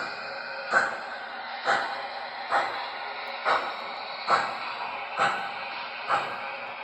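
Sound system of an O scale model steam locomotive giving slow, even chuffs, a little under one a second, over a steady hiss.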